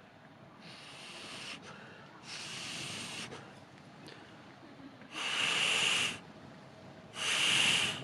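Four puffs of air blown into a campfire, each about a second long, with pauses between; the last two are the loudest.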